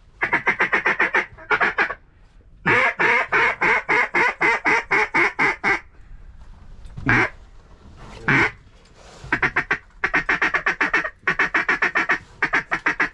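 Hand-blown duck call sounding fast runs of loud, short quacks, about six or seven a second, broken by a couple of single longer quacks near the middle: a hunter calling to flushed ducks to bring them back in.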